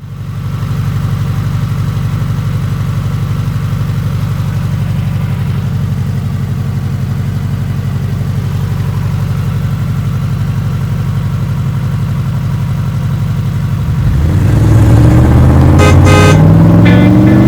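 Car engine sound effect idling with a steady, pulsing rumble. About fourteen seconds in it gets louder and revs up with rising pitch, with a few sharp pops near the end.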